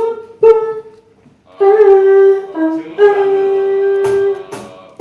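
A wind instrument plays a slow melody of long held notes as the opening of a song, with a couple of short strums near the end.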